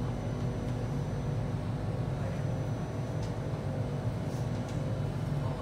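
Alstom C751A electric train standing at a station platform with its doors open: a steady low hum with several faint held tones.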